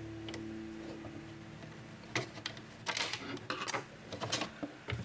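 A held background-music note fades out, then come irregular small clicks and clatters of handling graphics-card parts, the loudest cluster about three seconds in.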